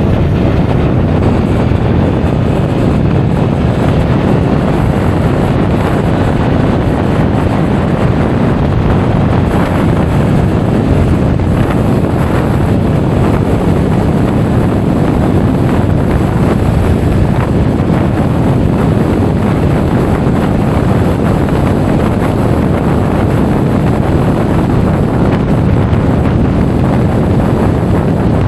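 Steady, loud wind noise rushing over an action camera's microphone on a Honda Forza 350 scooter moving at speed, with the scooter's running noise blended underneath.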